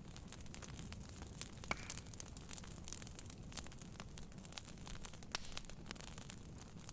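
Wood fire crackling with irregular sharp pops, a louder pop just under two seconds in, over a steady low rumble of heavy rain drumming on a tent.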